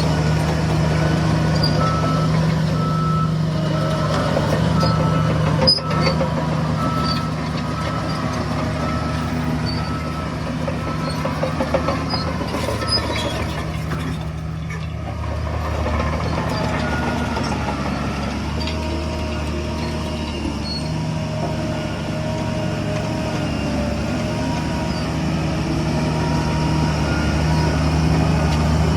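Heavy diesel construction machinery running steadily, with a reversing alarm beeping at a high pitch in the first few seconds and a lower-pitched reversing alarm beeping later on. A sharp knock sounds about six seconds in.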